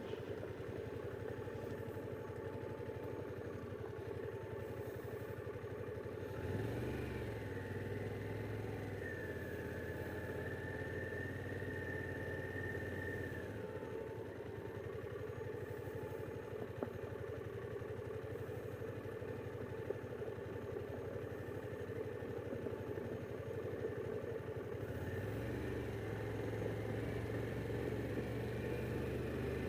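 Harley-Davidson Pan America's V-twin engine running steadily as the motorcycle rides along a backroad. The engine note shifts about six seconds in and rises again near the end.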